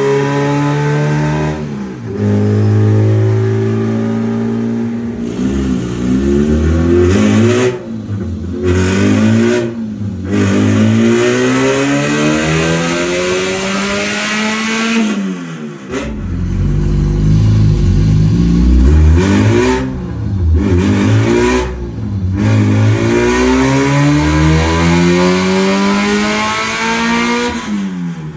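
Honda B20 VTEC four-cylinder engine revving hard in repeated rising pulls. The pitch climbs, breaks off, then climbs again several times, with a sharp cut-off about halfway through before the engine picks up again.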